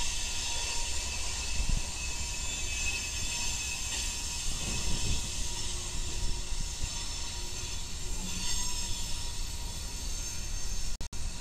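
Freight train with diesel locomotives rolling slowly past: a low rumble under a set of high, steady wheel squeals. The sound cuts out for an instant just before the end.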